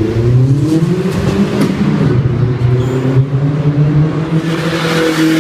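Car engine accelerating hard inside a road tunnel, its revs climbing over the first second and then holding high. A rushing noise builds near the end.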